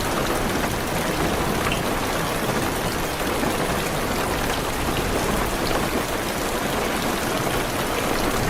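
Heavy rain falling steadily on a car's roof and windows, an even patter with a few single drops ticking out above it.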